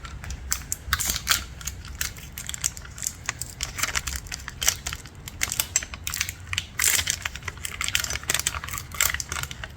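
Irregular clicking, crackling and crinkling as the small parts of a tyre plug repair kit are handled: the sticky rubber plug strips and their packaging.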